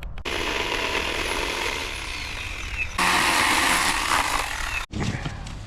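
A power tool running steadily with a harsh, even noise that gets louder about three seconds in and cuts off abruptly near the end.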